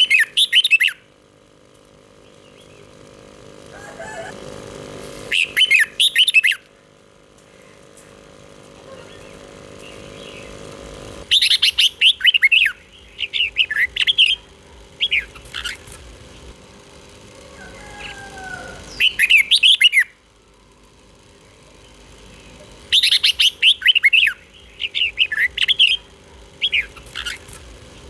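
Red-whiskered bulbul singing: bright bursts of quick, gliding whistled notes, each burst a second to a few seconds long, with pauses of several seconds between them.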